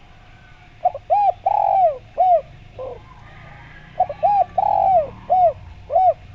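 Spotted dove (derkuku) cooing: two phrases of short arched coos, four notes and then five, each phrase with one longer coo that falls away at its end.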